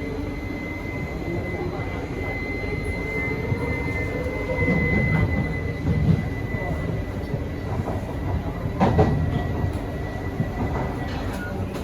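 Inside a Kawasaki & CRRC Sifang C151C metro train car running on the line. There is a steady rumble of wheels on track under a high, steady whine, and a lower tone rises in pitch about four seconds in. A knock comes about six seconds in and another around nine seconds.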